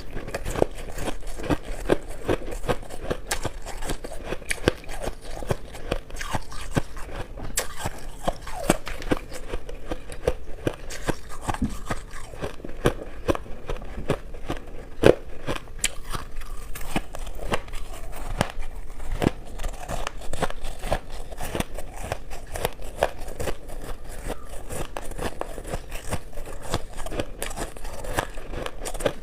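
A person chewing shaved ice close to the microphone: continuous crunching and crackling, with one sharper crunch about halfway through.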